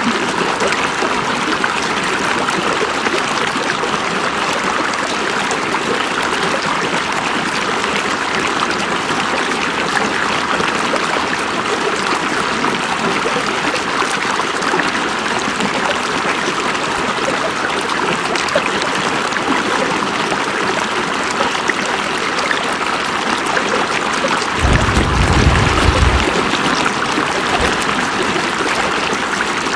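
River water flowing steadily over rocks, a continuous rushing and trickling. About 25 seconds in a brief low rumble rises under it for a second or two.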